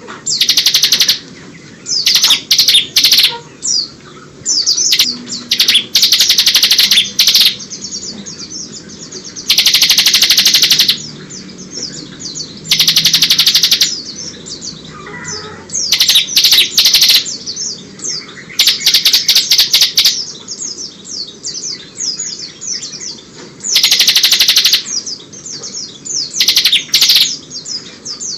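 Bar-winged prinia (ciblek) singing in the continuous, rapid 'ngebren' style, its song filled with white-eye (pleci) phrases. Loud, high, rapid trills of about a second each recur every few seconds, with quieter chattering notes in between.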